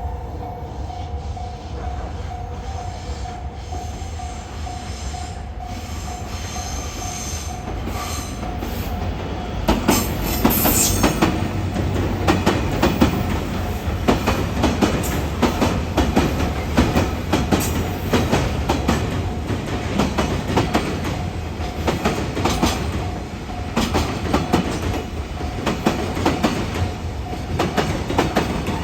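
Level-crossing warning bell ringing steadily, then a train runs over the crossing from about ten seconds in, with a low rumble and rapid wheel clacks on the rail joints.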